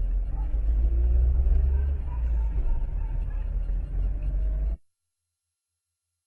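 Steady low rumble of a car, as picked up by a dash camera, with a faint rising tone in the first two seconds; it cuts off abruptly a little under five seconds in, leaving silence.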